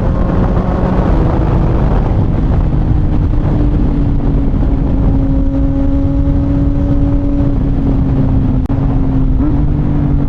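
CFMOTO 675NK inline-triple running through a titanium full-system exhaust at fairly steady revs while riding. The engine note eases slightly lower over the last few seconds.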